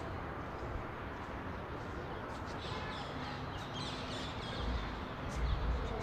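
Outdoor ambience with birds calling, a cluster of short high chirps about two to four seconds in. A low rumble on the microphone comes in near the end.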